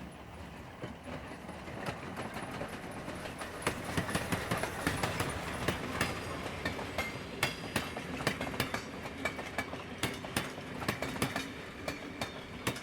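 Train running along the track, its wheels clicking over the rails in a quick, irregular clatter that grows louder about four seconds in.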